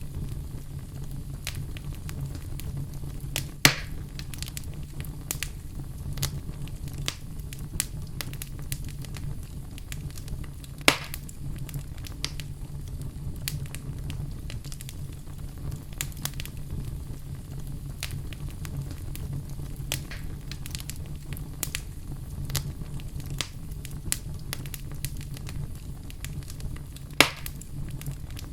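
Wood fire burning in a fireplace, crackling steadily with many small snaps and three much louder pops, over a steady low sound from the fire.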